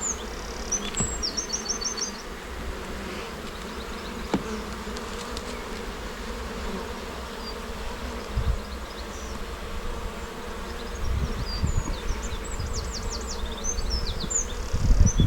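Honey bees buzzing steadily around an open hive during an inspection, a continuous hum of many bees. Low knocks and rumble build up near the end.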